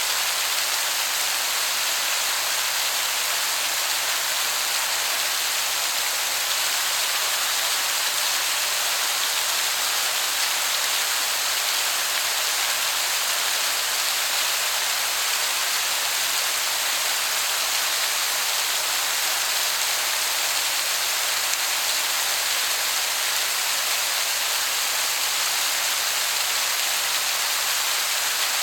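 Waterfall heard from some distance: a steady, even rush of falling water that sounds like heavy rain.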